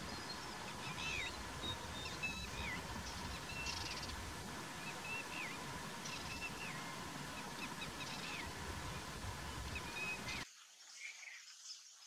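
Outdoor ambience of wild birds calling: many short whistled calls rising and falling in pitch, over a steady faint hum. About ten seconds in it cuts off suddenly to a much quieter background.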